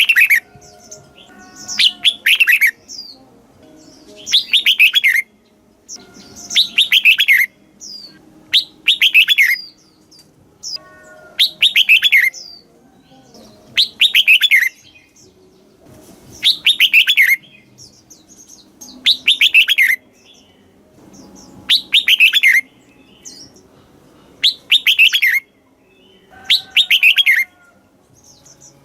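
Red-whiskered bulbul singing: short loud phrases of quick falling whistled notes, repeated about every two seconds, about a dozen times.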